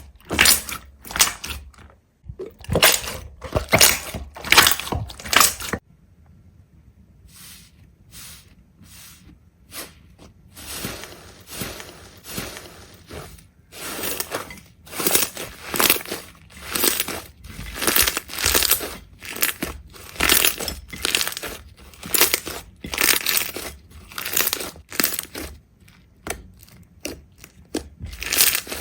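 Repeated crunching and crackling as something crisp is pressed or broken, in bursts about one to two a second; much fainter for several seconds early on, then back to a steady run of crunches.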